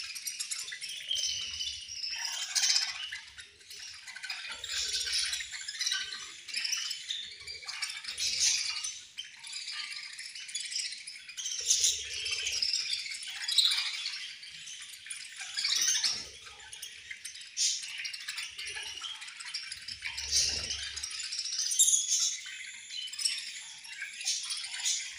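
A flock of budgerigars chirping and chattering together: a dense, continuous high-pitched twittering with louder peaks every second or two.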